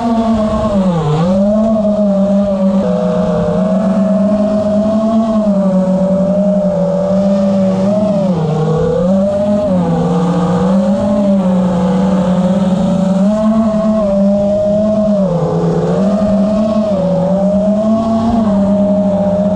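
A motor running loud and steady, its pitch dipping briefly and climbing back every second or two as the throttle is eased and reopened.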